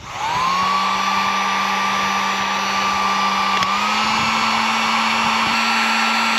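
Heat gun's fan motor switching on and spinning up, then running with a steady whine and rushing air while it shrinks heat-shrink butt connectors on a wire splice. The pitch steps up slightly about halfway through, and it starts to wind down at the very end.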